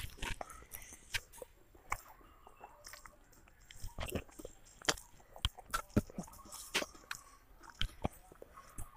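A child chewing rice and broiler chicken close to a clip-on microphone: irregular wet mouth clicks and smacks.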